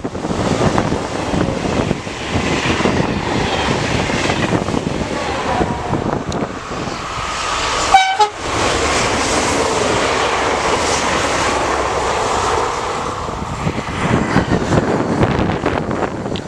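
A train passing at speed on an electrified main line: a sustained rush of wheel and air noise. About halfway through it breaks off abruptly and picks up again as a steady rush from another pass.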